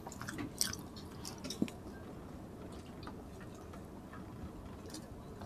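Faint chewing and small wet mouth sounds of people eating rice and roast pork with their hands, with scattered soft clicks, a few more in the first two seconds.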